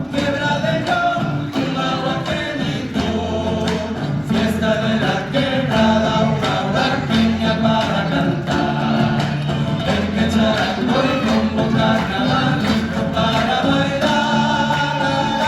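Several voices singing a folk song together over a steady instrumental accompaniment with a low bass line and a regular strummed beat.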